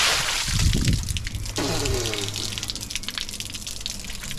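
Pent-up rainwater gushing and splashing out of a blocked downpipe as it is opened, loudest in the first second and then running on. A person's voice briefly exclaims about two seconds in.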